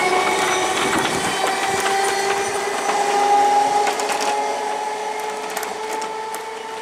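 Electric multiple-unit local train running, with a steady motor whine that rises slightly in pitch and rattling clicks of running gear for the first few seconds. The sound fades toward the end.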